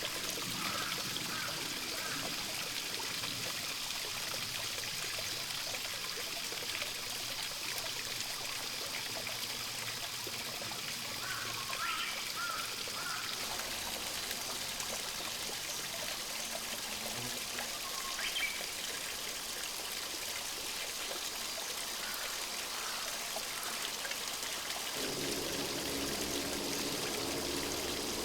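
Water of a small stream trickling and running steadily, with a few faint, short bird calls over it. About three quarters of the way through, the water sound becomes fuller and lower.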